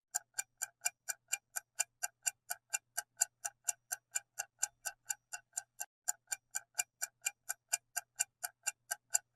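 Quiz countdown timer ticking like a clock: even, identical ticks at about four a second, running through the pause before the answer.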